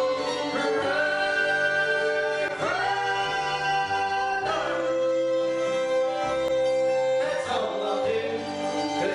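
Live bluegrass band playing: fiddle, guitar, mandolin, harmonica and double bass, with singing. Long held notes slide up into pitch, several sounding together in harmony.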